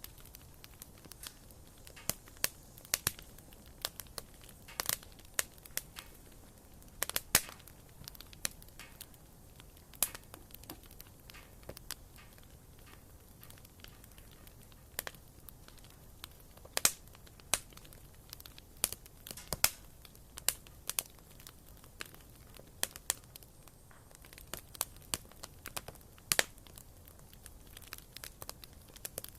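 Wood fire crackling in a fireplace: irregular sharp pops and snaps from the burning firewood over a soft, steady hiss.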